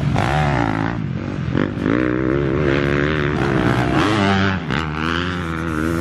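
Several motocross bikes racing at once, a mix of four-stroke and two-stroke engines revving up and down through the gears, their pitches overlapping.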